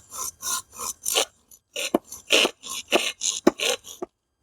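Hand saw cutting through a branch: rhythmic back-and-forth rasping strokes, about three a second, with a short pause partway and a few sharper knocks in the second half.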